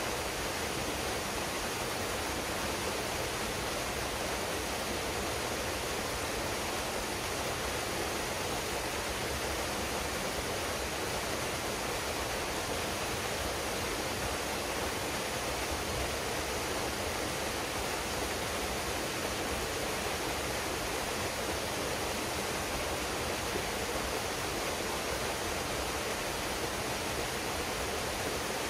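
Waterfall pouring into a pool: a steady, even rush of water.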